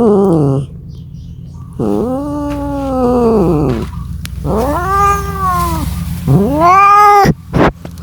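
Domestic cat yowling: about four long, drawn-out calls, each rising then falling in pitch, the last one ending abruptly near the end.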